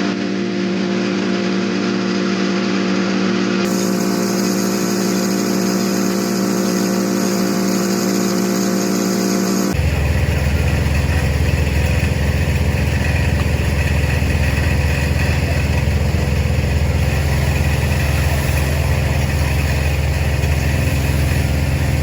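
A motor running steadily with a constant pitched hum. About ten seconds in, the sound cuts abruptly to a deeper, heavier running hum.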